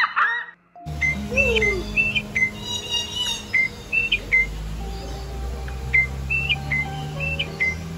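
Short, clear, whistled bird chirps, often in pairs, repeated throughout with a low steady hum under them. They begin after a brief stacked call is cut off about a second in.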